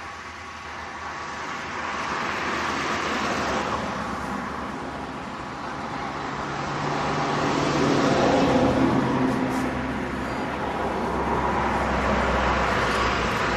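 A motor vehicle's engine running close by over a rushing noise, swelling louder about halfway through and staying strong to the end.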